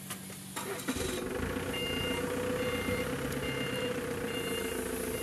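Vehicle reversing alarm beeping steadily, a little more than once a second, over a running vehicle engine. The engine noise comes in with a knock about a second in.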